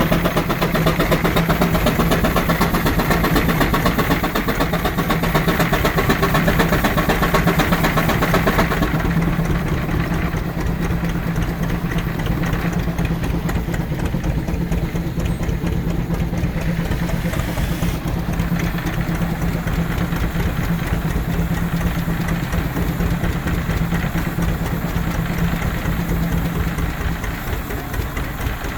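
George White steam engine running steadily under load, belted to a power eater, with a fast even beat and a steady hum. It gets somewhat quieter about nine seconds in, and the hum stops near the end.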